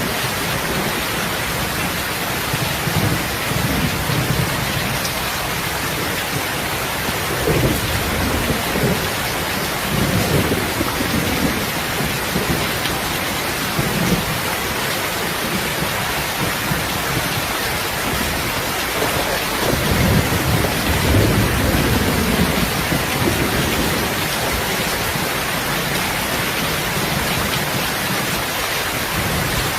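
Steady rain with low rumbles rising and fading every few seconds, the longest and loudest about twenty seconds in.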